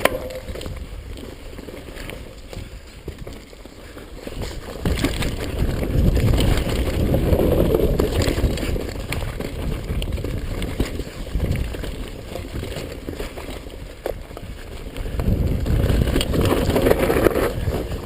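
Mountain bike rolling down a dirt trail: tyre and trail noise with wind rumbling on the microphone, swelling twice as the speed picks up.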